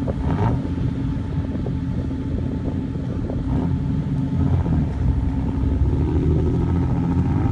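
Off-road 4x4 vehicle's engine running, a steady low drone that grows a little louder about halfway through.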